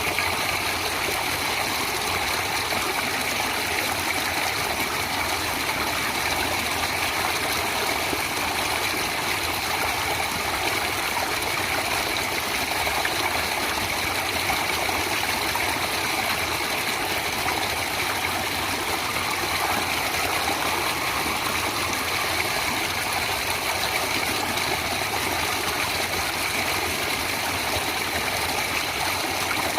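A stream of water flowing steadily, an even unbroken rush of moving water.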